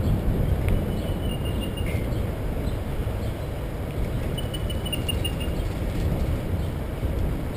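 Steady low rumble of wind on the microphone during a bike ride. A faint bird song, a quick run of high chirping notes, comes twice.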